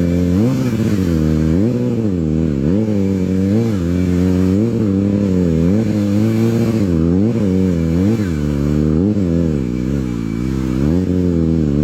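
Sport motorcycle engine being revved again and again, its pitch rising and falling about once a second, dropping lower for a moment about ten seconds in.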